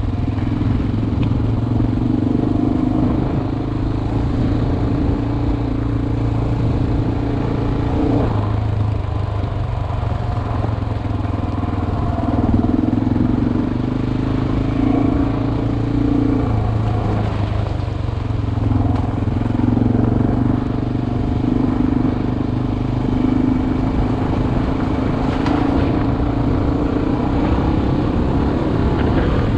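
Single-cylinder dual-sport motorcycle engine running under way, heard from the rider's helmet. Its note drops and rises a few times as the throttle changes.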